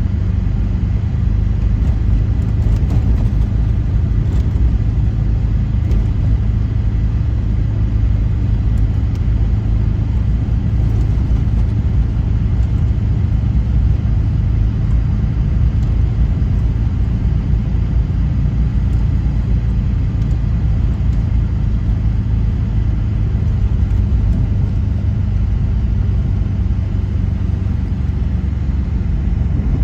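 A car driving, a steady low rumble of engine and road noise with no change in pace.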